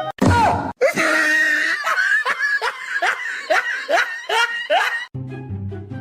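A quick falling slide-whistle-like glide, then a high-pitched laughing sound effect, a rapid run of rising and falling laugh syllables for about four seconds, before upbeat background music comes back in near the end.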